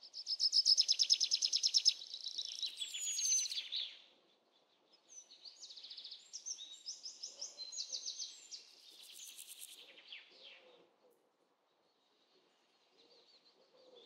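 Songbirds singing: a fast trill of rapidly repeated high notes for about two seconds, then varied chirping phrases that come and go and die away about ten seconds in.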